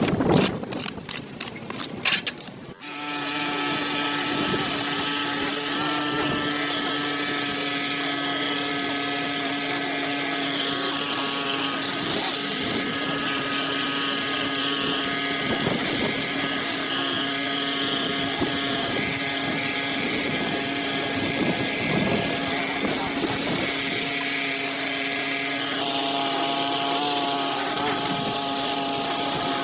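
A few clicks and knocks, then about three seconds in a motor-driven cleaning machine starts and runs at a constant speed, with a steady hum and a strong hiss over it.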